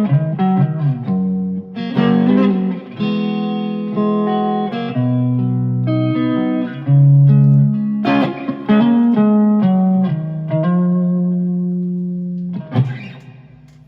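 Electric guitar played through an effects board and split by a Y-adapter to two amplifiers for stereo: picked melodic phrases with held, ringing notes. Near the end a chord is struck and left to ring out and fade.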